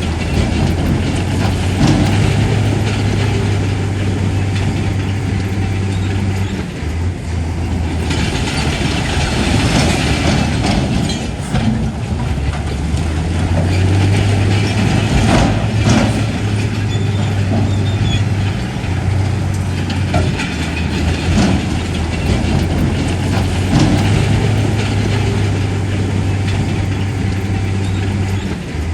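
Heavy diesel bulldozer engine running under load, easing off briefly a few times, with the clatter of its steel crawler tracks and occasional metallic clanks.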